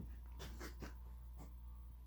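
A few soft clicks and rustles of something being handled, about four short ones spread over two seconds, over a steady low hum.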